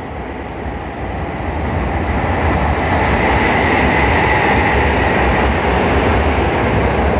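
Sanyo Electric Railway 5000 series electric train approaching and running past a station platform. Its wheels-on-rail running noise grows louder over the first few seconds, then holds steady as the cars go by.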